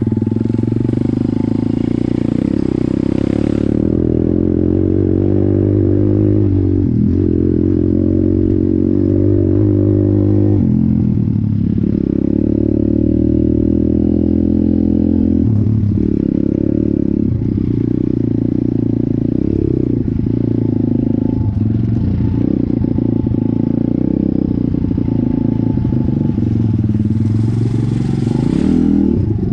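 Stomp Dirty S pit bike's 170 cc single-cylinder four-stroke engine running while being ridden. The engine note rises and drops several times as the throttle opens and closes and gears change.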